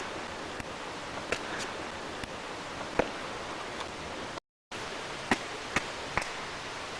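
Steady background hiss with a few light clicks and taps scattered through it; the sound cuts out completely for a moment just past halfway.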